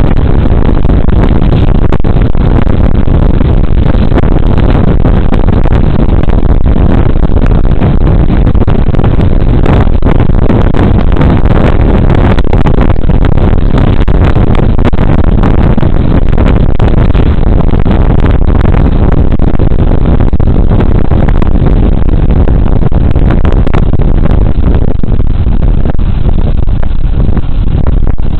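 Riding noise from a Suzuki Burgman Street 125 scooter heard on a body-worn camera's microphone: loud, steady wind rush and road noise, with the scooter's engine mixed in underneath.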